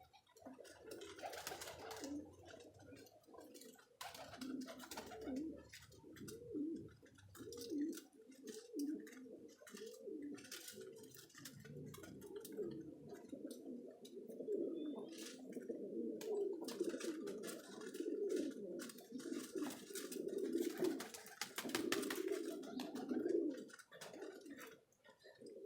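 Several domestic high-flyer pigeons cooing at once, overlapping coos that build up and stay dense through most of the stretch, with scattered short clicks and taps among them.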